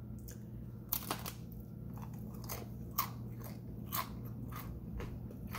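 Close-up chewing of a crisp cheese-wrap tostada topped with guacamole and chicken: irregular sharp crunches, roughly one every half second to second.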